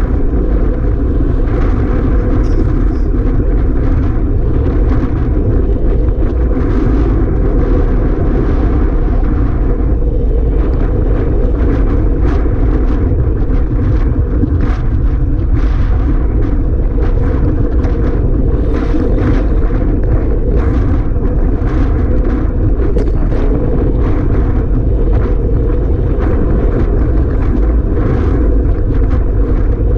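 Strong wind rushing and buffeting the microphone, loud and steady with constant small gusts.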